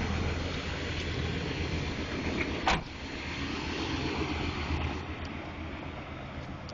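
1983 Chevrolet K10 Silverado's 400 small-block V8 idling steadily, with a single sharp knock a little before the middle.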